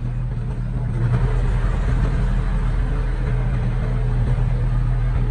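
Heavy construction machine's diesel engine running steadily with a low drone, growing a little louder about a second in.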